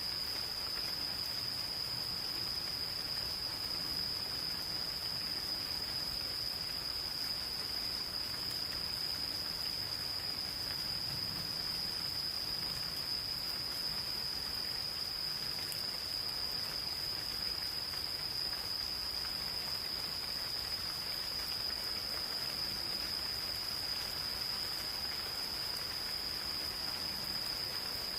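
Insects calling in one unbroken, steady high-pitched trill, over the even hiss of gentle rain.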